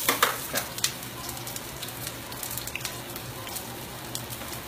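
Spaghetti squash latkes frying in oil in a cast-iron skillet: a steady sizzle with scattered small pops. A few sharp clicks stand out in the first second.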